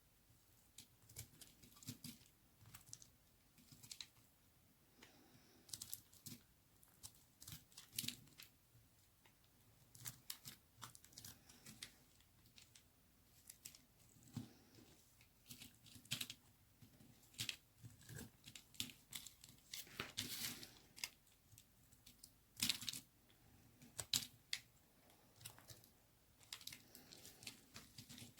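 Knife cutting a bar of white baby soap: irregular crisp crackles and snaps, with a longer scraping crunch about two-thirds of the way through.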